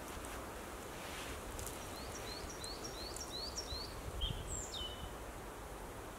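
A small songbird sings one phrase: about six quick, evenly spaced high notes, then a lower note and a falling flourish. Faint rustling of moss being pulled up by hand sits under a steady background hiss.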